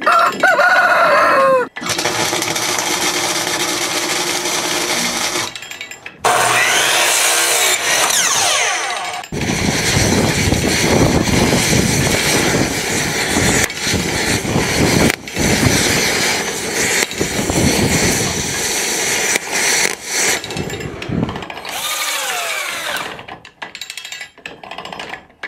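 Rooster crowing, in several separate stretches with abrupt cuts to other loud noise in between.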